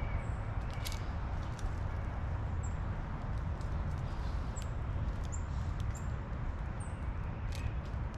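Small birds giving brief, very high, thin chirps every second or so, with scattered sharp clicks, over a steady low rumble.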